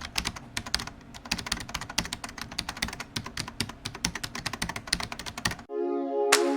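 Rapid, irregular clicking, many clicks a second. About a second before the end it stops and electronic music with sustained tones and sharp beats begins.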